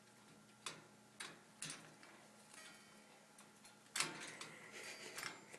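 A sun conure pecking and tugging at a stuffed toy in its cage: a few faint, sharp clicks in the first two seconds, then a busier stretch of scratching and rustling about four seconds in.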